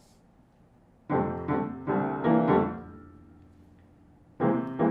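Piano playing a short phrase of chords that starts suddenly about a second in and rings away, then a second phrase begins near the end: the introduction to a show tune.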